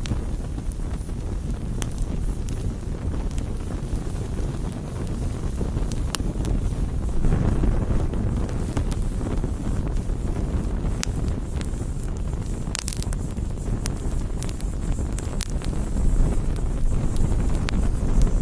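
Campfire crackling, with sharp pops scattered irregularly, over a steady low rumble of wind on the microphone that swells for a couple of seconds about seven seconds in.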